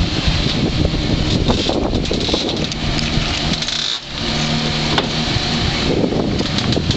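Porsche Carrera GT's V10 engine running loudly; the sound drops sharply about four seconds in, then holds a steady low note for a couple of seconds.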